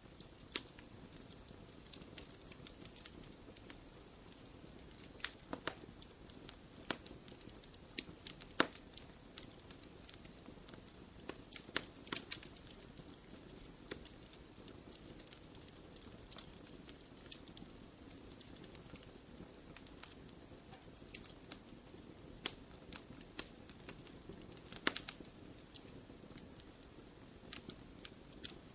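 Wood fire crackling in a fireplace: a soft steady hiss with irregular sharp pops and snaps. The loudest pops come about a third of the way in and again near the end.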